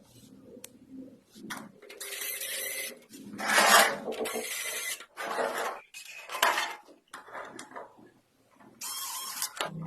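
Tractor gear parts scraping and rasping against each other in irregular short bursts as they are worked into place, metal rubbing on metal, loudest a little under four seconds in.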